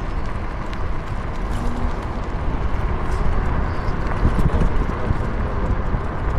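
Electric scooter rolling along a concrete cycle path: a steady low rumble with irregular knocks and rattles as the wheels ride over the uneven surface.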